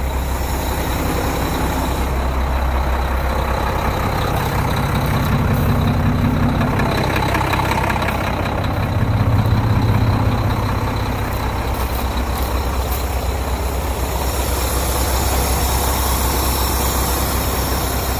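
Heavy diesel truck engine idling steadily, its low hum swelling for a couple of seconds about halfway through.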